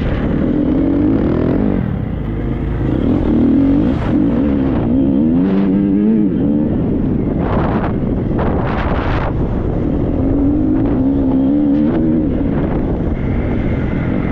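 Triumph 250 motocross bike engine being ridden hard, its pitch rising and falling as the throttle is opened and closed, with short rushes of noise over the top.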